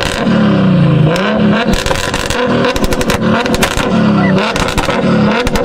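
Turbocharged car engine revving up and down over and over on an antilag or launch limiter, with rapid strings of sharp exhaust pops and bangs through the middle and again near the end.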